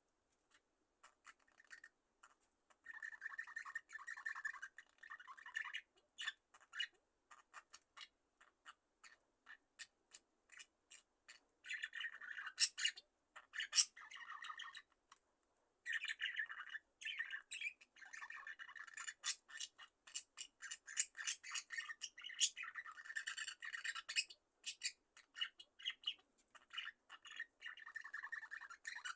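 A flock of budgerigars chirping and squawking in quick, overlapping bursts, with short pauses between clusters of calls.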